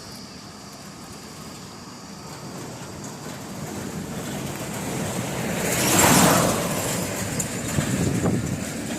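Road traffic: a motor vehicle's noise builds up and passes close about six seconds in, and a second, smaller pass-by follows near the end.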